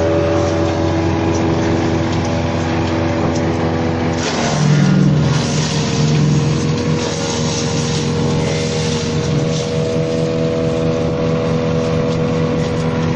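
Engine-driven branch shredder running steadily. About four seconds in, conifer branches go into it and it chips them with a loud crackling grind for several seconds. Its engine note sags under the load and picks back up once the branches are through.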